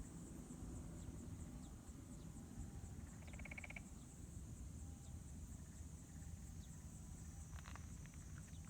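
Insects trilling steadily in a high, pulsing chorus over a faint low rumble, with a short buzzy call from a frog or bird about three and a half seconds in.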